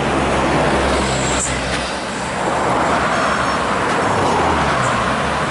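Road traffic passing close by: a steady rumble of heavy-vehicle engines and tyre noise that swells about three seconds in as a vehicle goes past.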